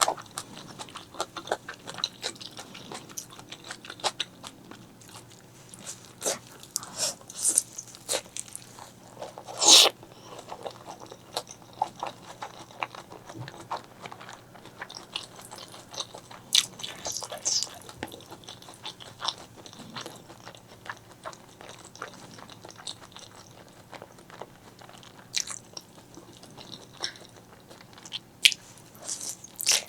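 Close-miked eating sounds: chewing and biting of spicy black bean noodles and fried eggs, heard as irregular wet clicks and crunches, with one louder burst about ten seconds in.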